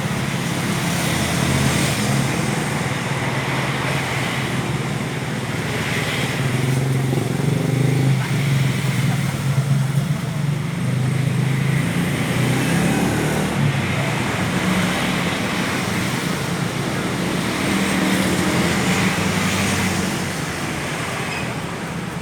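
A motor engine running steadily with a low hum, over general road-traffic noise.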